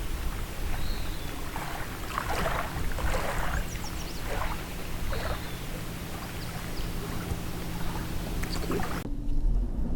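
Small waves lapping and sloshing against a dock at irregular intervals, about once a second, with a few faint high chirps.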